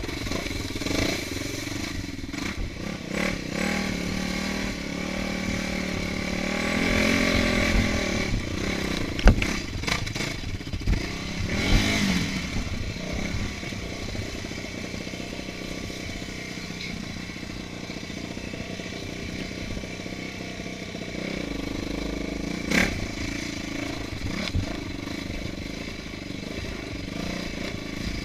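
Off-road motorcycle engine running under changing throttle while riding a rough trail, revving up about six to eight seconds in. A few sharp knocks and clatter come from the bike over bumps, the loudest about nine seconds in.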